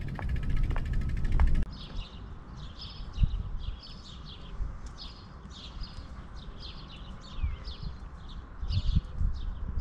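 Music that cuts off suddenly about a second and a half in, then small birds chirping over and over, several chirps a second. Under the birds runs a low rumble with a few dull thumps, the loudest about three seconds in.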